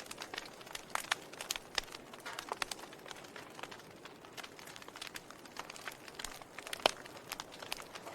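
Wood fire crackling in a fireplace: irregular sharp pops and snaps over a soft steady hiss of burning, with one louder pop near the end.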